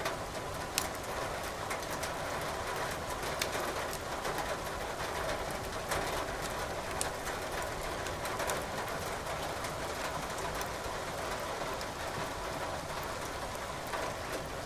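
Burning firewood crackling in a fireplace, with sharp pops every second or two, over a steady hiss of rain.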